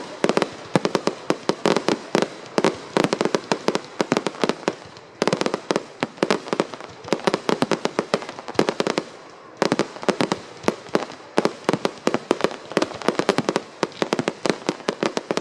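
Fireworks display: a dense, rapid string of bangs and crackling reports, many per second. The barrage thins out briefly twice, about five seconds in and just before ten seconds, then picks up again.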